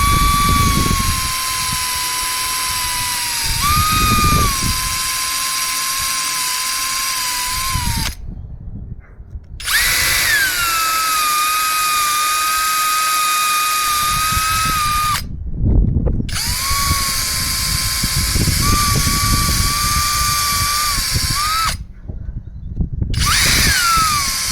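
Electric drill boring shallow shelf-peg holes into cabinet side panels. The motor whine runs steadily, stops three times and spins back up with a rising pitch each time, and a lower rumble comes and goes as the bit cuts in.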